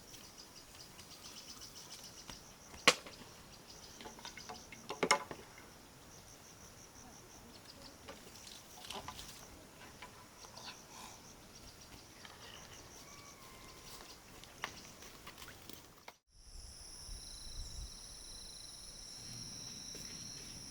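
Insects chirping in rapid pulsed trains, with two sharp knocks near 3 and 5 seconds in. After a sudden break about 16 seconds in, a steady high-pitched insect drone takes over.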